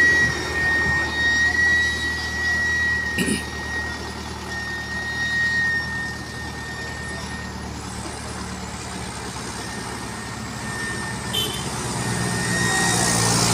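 Heavy truck diesel engines running hard under load as one truck pushes another up a slippery climb, with a steady high whine over the first half. The engine sound builds louder near the end.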